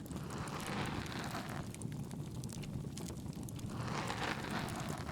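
ASMR bonfire sound: steady low crackling of burning wood, with many small pops. Two soft rustling swells rise and fade over it, one near the start and one about three and a half seconds in.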